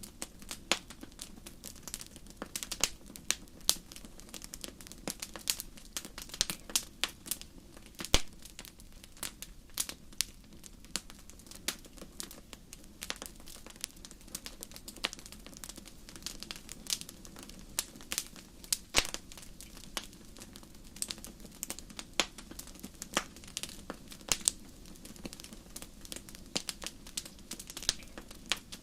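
Wood fire burning in a fireplace: irregular crackles and sharp pops, several a second with a few louder snaps, over a steady low rumble of the flames.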